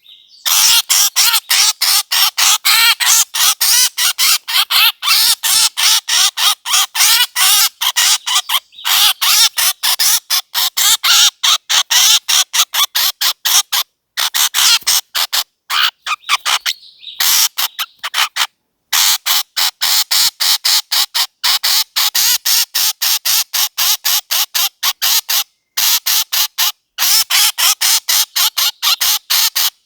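Bird-calling lure recording: a single bird giving a rapid series of sharp, high-pitched calls, about four a second, with a few brief clean breaks.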